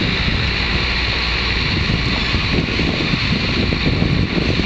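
Train in motion heard from on board: a steady rumble of wheels running on the rails, mixed with heavy wind noise on the microphone.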